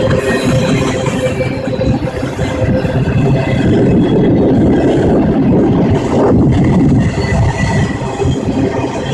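Train rolling past close by: a loud, steady rumble of wheels on rail.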